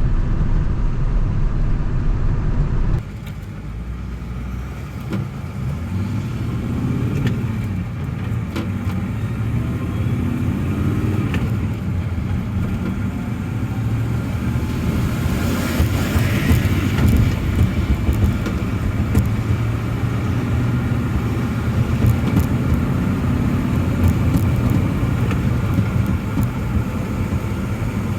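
A road vehicle driving, with a steady engine and road rumble and scattered light ticks. It cuts abruptly to a slightly quieter stretch about three seconds in, and there is a brief rise of hiss around the middle.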